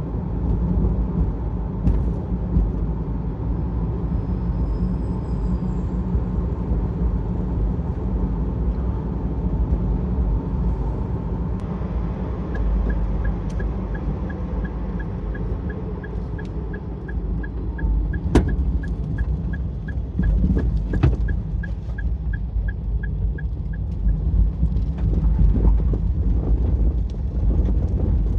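Steady low rumble of a vehicle being driven. For about ten seconds in the middle there is a regular rapid ticking, two to three ticks a second, and a couple of sharp clicks.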